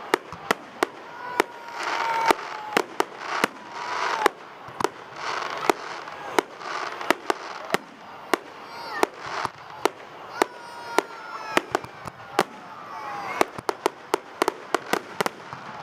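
Fireworks going off: a steady run of sharp, irregular bangs with hissing between them, quickening into a rapid cluster of bangs near the end.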